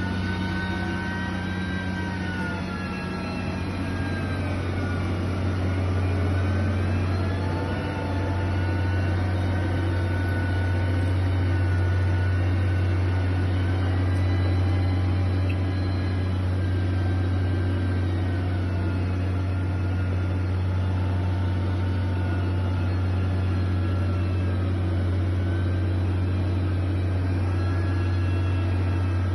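Heavy construction machinery's diesel engine running steadily, a deep hum under a higher whine that rises and falls slightly as the engine works.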